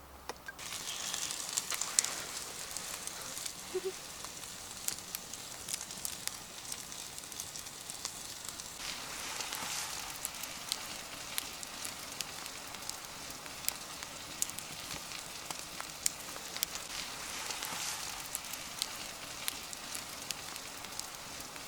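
Wood campfire crackling with many sharp pops over a steady sizzling hiss of food cooking over the flames. It starts about half a second in.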